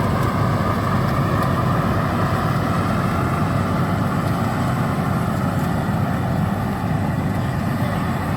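Combine harvester running steadily, its engine a continuous low drone with a mechanical hum over it as it works the rice paddy.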